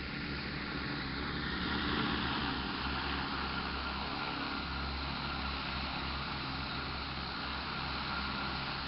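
Propellers of a 10-litre multirotor crop-spraying drone whirring steadily in flight, growing a little louder about two seconds in, with a faint high tone that falls in pitch over the first couple of seconds.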